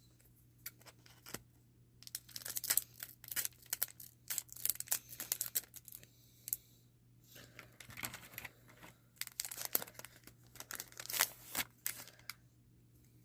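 The wrapper of a Magic: The Gathering booster pack being torn open and crinkled, heard as a run of short, crackly rustles.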